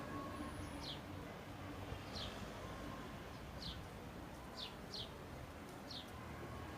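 A small songbird giving short, high chirps that drop in pitch, six of them spaced roughly a second apart, over steady outdoor background noise.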